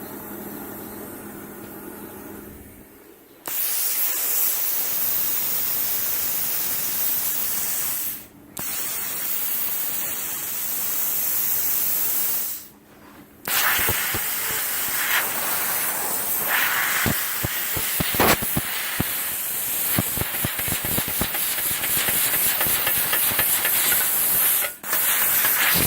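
CUT50 plasma cutter firing: a low hum, then a loud steady hiss of air and arc that cuts out briefly twice. In the last stretch the hiss is full of crackling and popping, as the arc spits and melts the metal and consumables rather than cutting cleanly, a fault the owner puts down to the unit.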